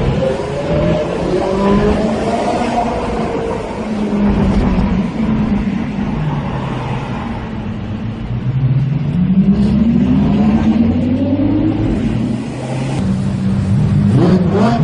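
Lamborghini V12 engine being revved in repeated rises and falls, with a longer climb in pitch about eight seconds in and a sharp rev rise near the end.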